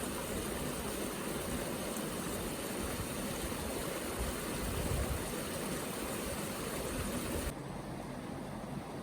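Steady rushing of flowing water, like a forest stream, which cuts abruptly to a quieter hiss about seven and a half seconds in.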